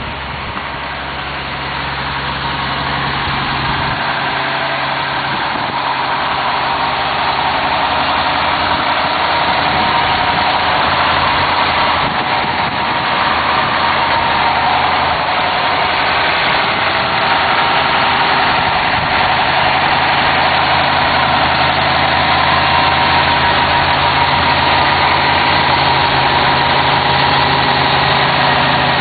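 Toyota FJ60 Land Cruiser's 4.2-litre 2F inline-six engine running steadily at a low, even speed, growing louder over the first few seconds and then holding level.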